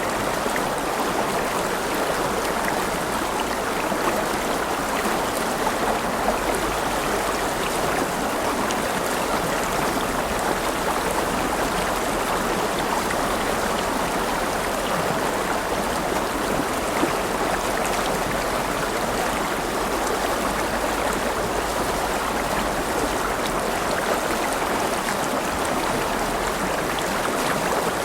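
River water flowing steadily over stones, a continuous rushing babble with small splashes and droplets.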